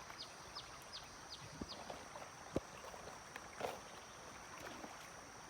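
A bird calling a quick series of short falling notes, about three a second, over a steady high-pitched insect drone. A single sharp click about two and a half seconds in.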